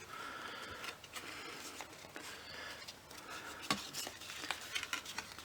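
Card stock rustling and tapping lightly as die-cut paper panels are handled and pressed into place, with a few small clicks.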